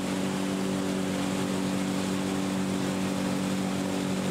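Motorboat engine running at a steady pitch, an even hum over a rush of water and wind noise.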